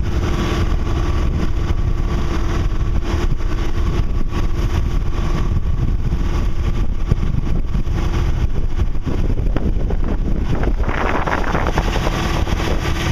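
Sailboat's auxiliary engine running steadily under way, a constant drone with a steady hum, mixed with wind on the microphone; the wind and water hiss grows louder near the end.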